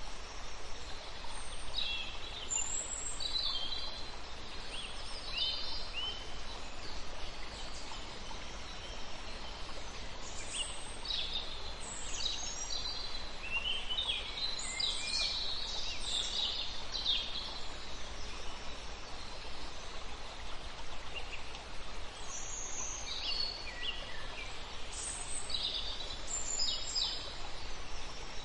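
Small birds chirping on and off over a steady background hiss of outdoor ambience.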